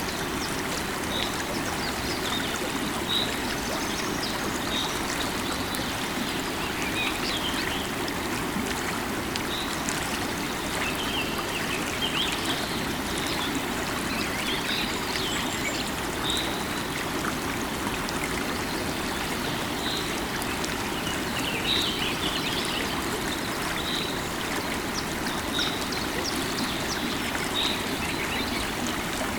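River water flowing steadily, with birds chirping over it: short high calls every second or two.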